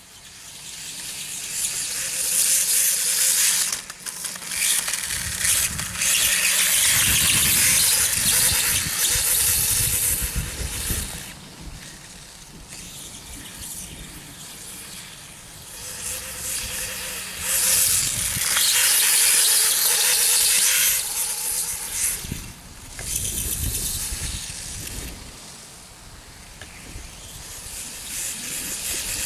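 Radio-controlled electric dirtbike running on off-road ground: a high squealing, hissing motor-and-tyre noise that swells and fades in several runs, with quieter gaps between them.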